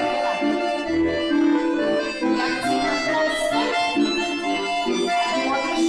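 Accordion playing a folk-style tune of held, changing chords and melody, accompanying the dancers' barre exercise.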